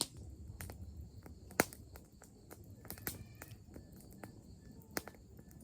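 Scattered sharp clicks and pops over a low rumble, with faint insect chirping in the background.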